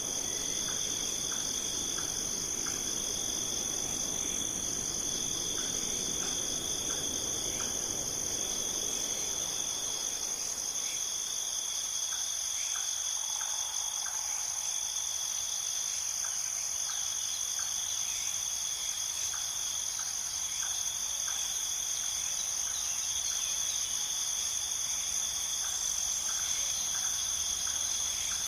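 Crickets chirring steadily in a high, continuous drone, with faint short ticks repeating in small groups. A soft low rushing underneath fades out about a third of the way in.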